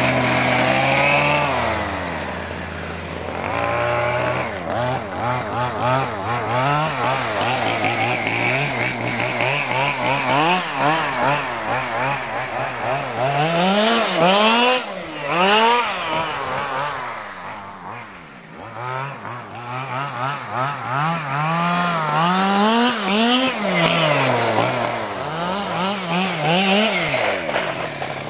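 Zenoah 26cc two-stroke engine of a large-scale RC car being run in, revved up and down again and again with its pitch rising and falling. It holds high revs steadily for the first second or so, and is quietest about two-thirds of the way through.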